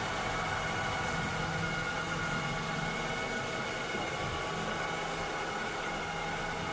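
Cleaning robot running: steady motor and fan whir with several constant high whining tones, and a low hum that fades in and out.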